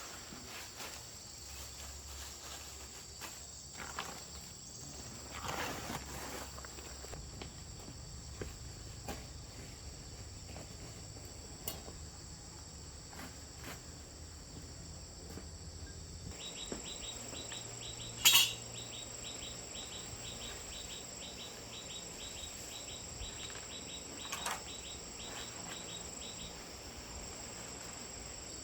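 Insects chirring steadily at a high pitch. A little past halfway a rapid, pulsing chirp joins in, and there are a few scattered clicks, one sharper than the rest about two-thirds through.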